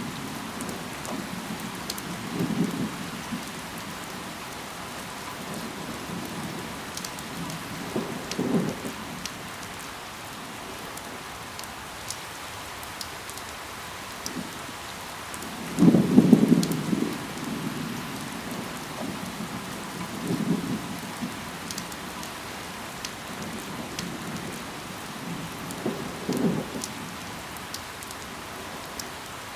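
Steady rain falling on leaves, with scattered sharp drips, and short low rumbles of distant thunder about every five or six seconds, the strongest about halfway through.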